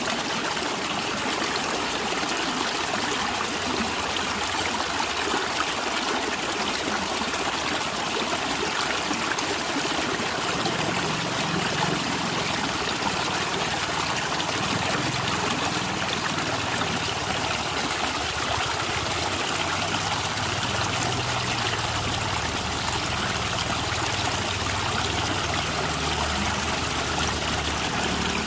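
A natural stream flowing and gurgling steadily over its bed, with a low rumble joining in about ten seconds in.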